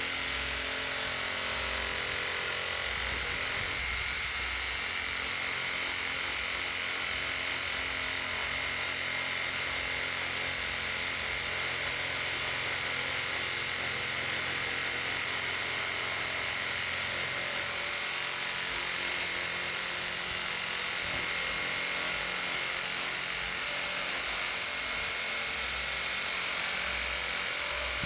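Electric power tool running steadily with a constant high whine over a low hum, cutting wood, stopping just at the end.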